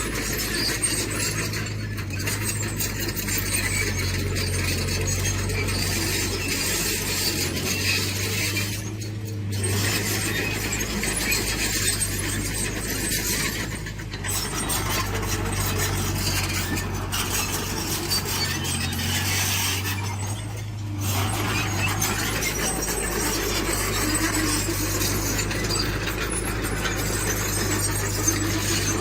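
Tracked earthmoving machinery at work: a diesel engine running steadily under a constant metallic squealing and clinking from the tracks and stones. The sound briefly drops away three times.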